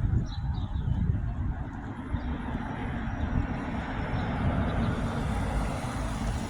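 Road traffic at a street intersection: a vehicle passes, its tyre and engine noise building to loudest about four to five seconds in, over a fluctuating low rumble.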